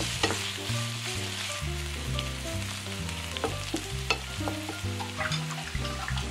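Green chili pepper strips sizzling in oil in a nonstick frying pan, stirred with a wooden spatula as it begins, with a few sharp clicks. Background music with a stepping bass line plays throughout.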